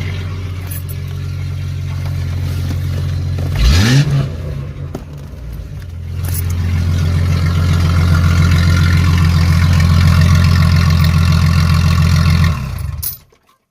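Jeep Grand Cherokee ZJ's 4.0-litre inline-six running loud with the muffler removed, the exhaust open straight after the catalytic converter. It is revved briefly about four seconds in, then runs steadily and louder for several seconds before shutting off near the end.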